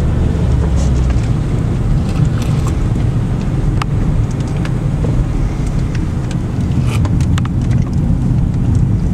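Car driving along a winding road, heard from inside the cabin: steady low engine and road rumble, with a few light clicks about four and seven seconds in.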